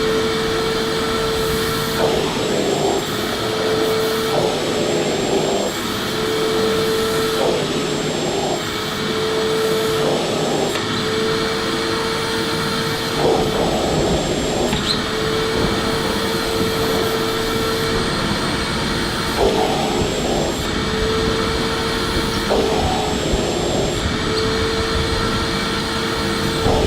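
Electric vacuum cleaner running: a steady motor whine over the rush of air, with the tone breaking off briefly every couple of seconds.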